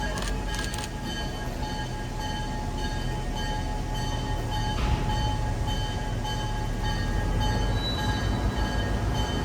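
Diesel locomotive of a freight train running as the train moves off, a steady low rumble with thin high ringing tones that come and go above it. The rumble grows a little louder about halfway through.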